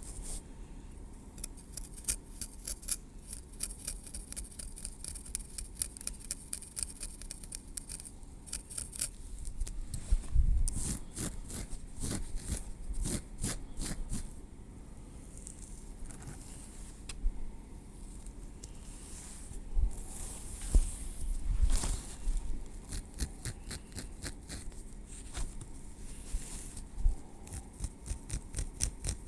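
Tweezers picking, clicking and scraping through hair against the scalp: a run of small crisp clicks and ticks, thickest in the first several seconds, with a few soft low thuds now and then.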